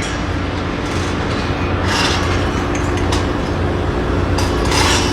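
Cargo ship engine-room machinery running: a loud, steady drone with a low hum, broken by brief noisy bursts about two seconds in and again near the end.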